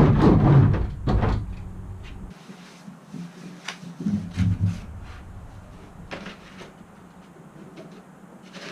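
Sound-deadening mat being worked onto a van's sheet-metal panel: loud, rapid rubbing and rumbling for the first second or so, then scattered light knocks and taps.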